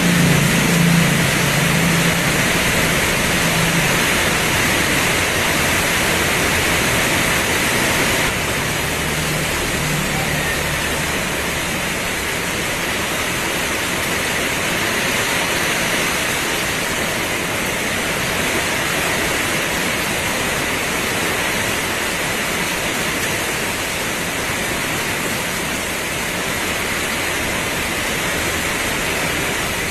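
Heavy rain pouring with a steady, even hiss. A low rumble runs under it for the first ten seconds or so and fades out, and the rain drops slightly in level about eight seconds in.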